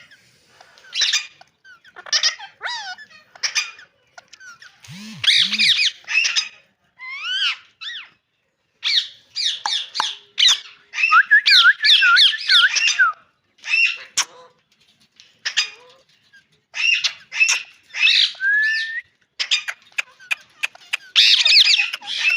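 Ringneck parakeet calling in a string of short squawks, chirps and whistled glides, with a longer run of rapid warbling chatter around the middle.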